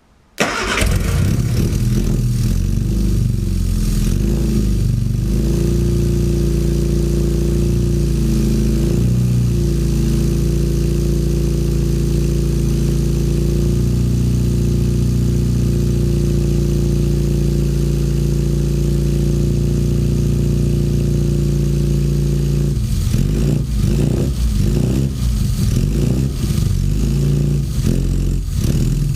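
Classic Mini's A-series four-cylinder engine starting and settling into a steady idle, then revved in repeated short blips over the last several seconds. The fuelling and ignition timing are not yet set up.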